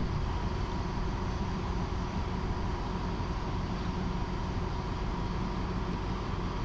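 Passenger train rolling along, heard from on board: a steady low rumble with a faint steady tone over it.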